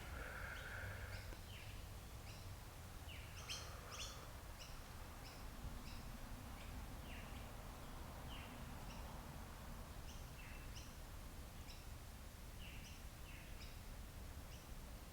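Birds chirping faintly outdoors: many short, falling chirps scattered throughout, over a steady low rumble of outdoor ambience.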